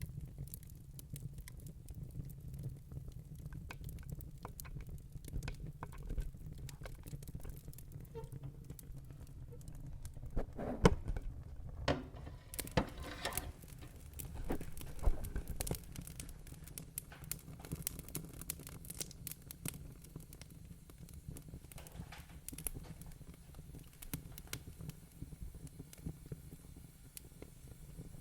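Wood fire crackling in a fireplace: scattered pops and snaps over a low steady rumble, with a run of louder pops about halfway through.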